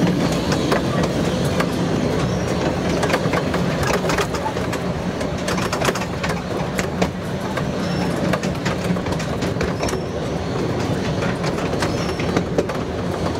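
Miniature railway train running: a steady rumble with frequent clicks of the wheels over the rail joints.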